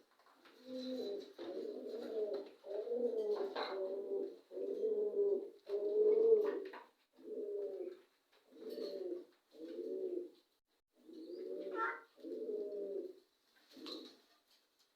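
A pigeon cooing in a long series of low calls. They run almost continuously for the first several seconds, then come one about every second, with a few faint high chirps in between.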